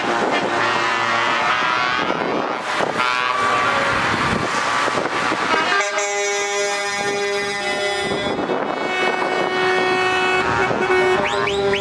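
Truck air horns sounding as the decorated lorries pass, with several long, held horn tones in the second half.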